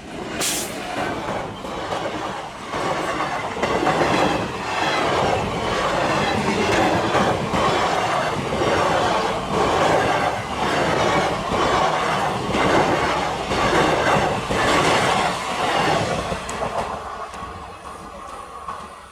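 Express train of ICF passenger coaches passing at speed, wheels clattering in a steady run of beats over the rail joints. The sound dies away over the last few seconds.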